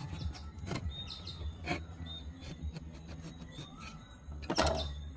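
Small birds chirping in short calls, over a steady low rumble, with a few sharp knocks, the loudest about four and a half seconds in.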